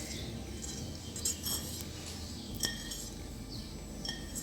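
A spoon clinking and scraping against a dish, a few light clinks spread through, as sautéed onions are scooped into a bowl of chicken pieces.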